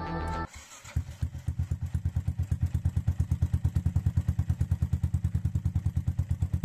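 Yamaha Jupiter MX 135cc single-cylinder four-stroke motorcycle idling through an aftermarket racing exhaust, with an even low putt-putt pulse of about nine beats a second.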